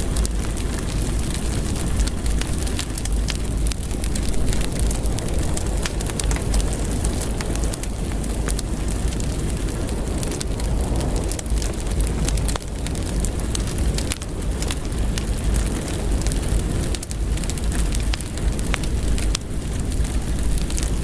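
Wood fire crackling in a fireplace: a steady low rumble of burning with frequent small pops and snaps scattered throughout.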